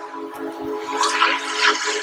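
Union Pacific Big Boy steam locomotive's whistle sounding a long, steady chord, over a loud hiss of escaping steam.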